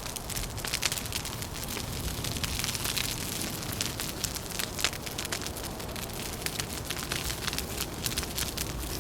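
Wood fire crackling with many irregular sharp pops, over a steady low rush of wind.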